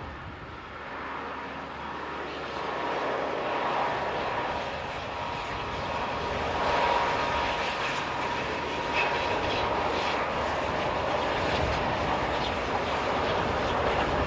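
Test train of a V100 diesel locomotive hauling the class 52 steam locomotive 52 6106, with an escort coach and two V60 diesels, approaching and passing. The mix of diesel engine and locomotive exhaust noise grows steadily louder over the first six or seven seconds, then holds.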